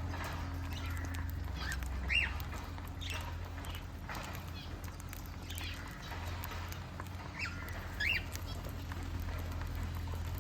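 Birds giving short, scattered chirping calls, about eight over ten seconds, over a steady low hum.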